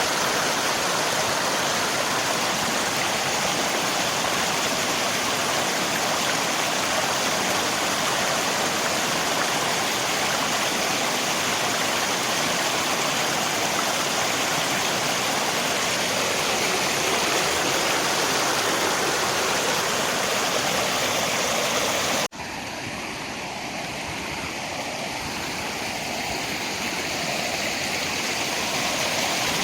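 River water rushing with rain, a steady even wash of noise. About three-quarters of the way through it cuts off abruptly and comes back quieter and softer, then slowly grows louder again.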